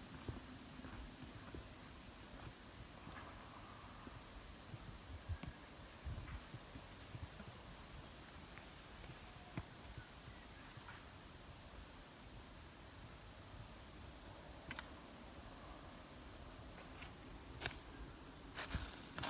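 A steady, high-pitched chorus of insects trilling, with a second, lower trill at the start and near the end. Scattered faint footsteps, a few of them close together near the end.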